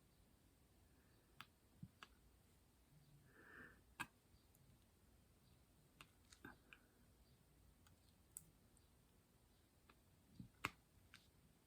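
Faint, scattered small clicks and taps, a dozen or so at irregular spacing with one sharper tap near the end, as of diamond painting drills being picked up and pressed onto the canvas with the applicator pen.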